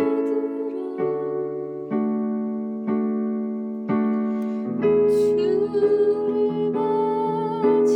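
Keyboard playing a slow worship song in sustained chords, a new chord struck about every second.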